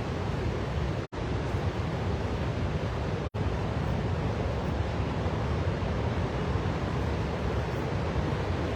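Steady rushing noise of a large waterfall, the Victoria Falls, heard from the rainforest path. The sound cuts out for an instant twice, about a second in and just after three seconds.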